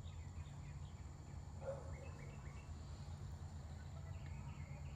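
Faint dusk garden ambience: scattered short, high chirps from small birds and insects over a steady low hum, with one brief lower call a little under two seconds in.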